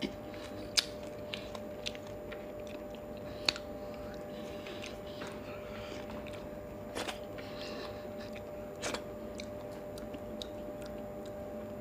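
Close-miked chewing and mouth sounds of a person eating rice and curry by hand, with a few sharp smacking clicks spread through and smaller ticks between, over a faint steady hum.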